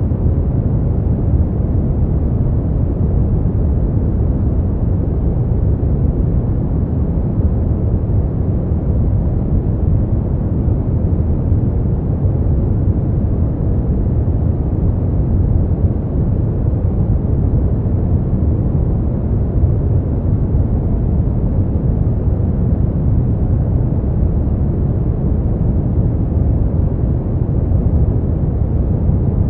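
Brown noise: a steady, deep rumbling hiss, strongest in the low end and fading out toward the highs, with no change throughout.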